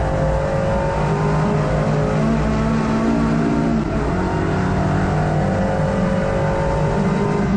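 Hot hatch race car's engine heard from inside the cabin, running hard under racing load, its pitch drifting slightly up and down.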